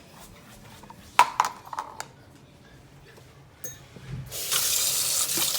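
A few clinks and clatters of dishes, then a kitchen tap is turned on about four seconds in and water runs steadily into the sink.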